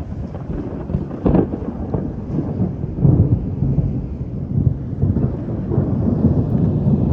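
Thunder rumbling during a rainstorm, with a sharp crack a little over a second in and the rumble growing louder toward the end.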